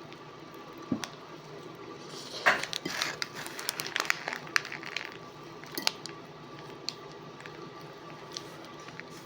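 Crinkling of a food wrapper and eating noises: scattered rustles, clicks and crackles, busiest from about two to five seconds in, with the sharpest crackle about two and a half seconds in, over a faint steady hum.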